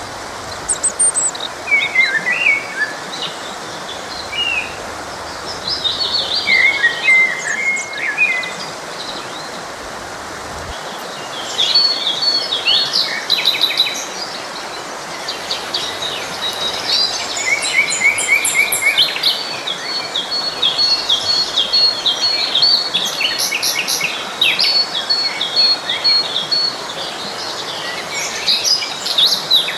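Several songbirds chirping and trilling over the steady rush of a forest stream; the birdsong becomes busier and more continuous about a third of the way in.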